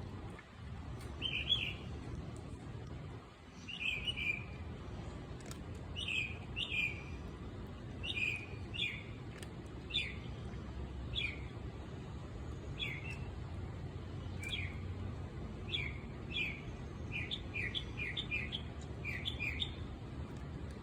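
A small bird chirping over and over in short falling notes, spaced about a second apart at first and coming in quicker clusters in the second half, over a steady low outdoor rumble.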